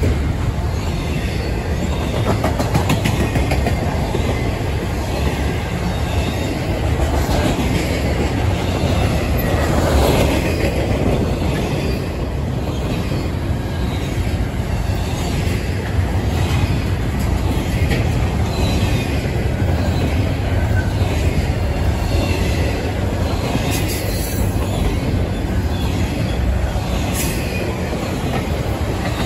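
Freight train cars rolling past close by: a steady, loud rumble of wheels on rail, with clicking as the wheels cross the rail joints.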